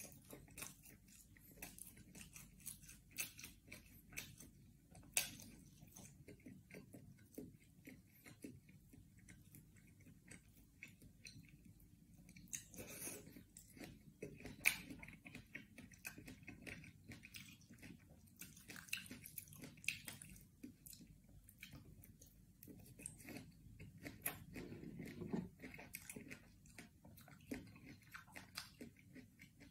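A person chewing and biting food close to the microphone: faint, irregular wet mouth clicks and smacks.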